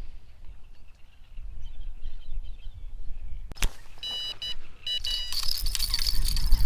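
Wind buffeting the microphone as a low rumble. About three and a half seconds in there is a sharp click, followed by a high-pitched tone that starts and stops several times, then a louder high hiss near the end.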